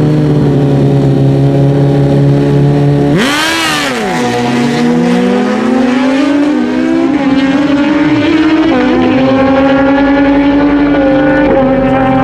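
A pair of naturally aspirated stock drag-racing motorcycles run a heads-up pass. Their engines are held at steady high revs on the start line, then flare and dip at the launch about three seconds in. They then climb in pitch through the gears, with upshifts, as the bikes pull away.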